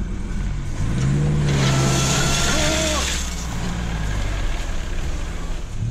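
A vintage car's engine catches and runs, its low note rising about a second in, with a loud hiss of rushing air for a second or two before it settles to a steady run.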